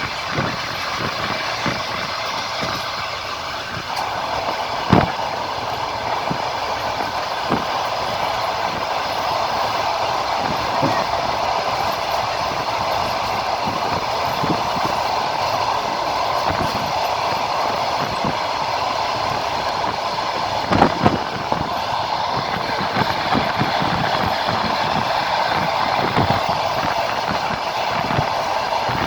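Passenger train under way, heard from inside a carriage at the window: a steady rolling noise with the wheels clacking over rail joints, and a couple of louder knocks about two-thirds of the way through.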